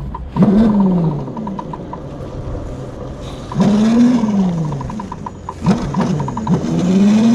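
Razor MX350 electric mini dirt bike's motor and chain drive whining, rising in pitch as it speeds up and falling away as it slows, three times over.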